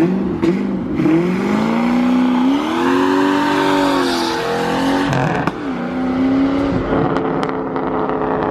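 A car engine being revved and driven hard, its pitch rising and falling several times with brief drops between pulls; it is called a hard-sounding engine.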